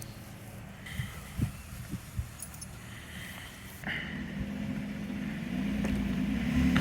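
2016 Lexus RX 350's V6 engine running low, with a few sharp knocks early on. About four seconds in, the engine comes up under load, pulling on the tow chain to drag the tree's root ball, and its drone swells slightly toward the end.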